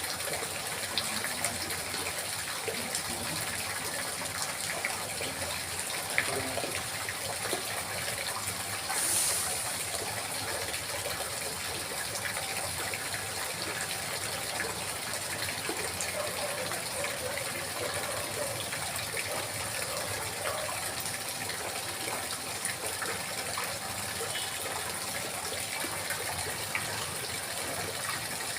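Water trickling and babbling steadily, a continuous gurgling rush with a brief louder swell about nine seconds in.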